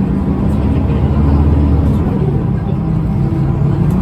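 Scania L94UB bus's 9-litre five-cylinder diesel running under way, its ZF automatic gearbox whining over the steady engine note.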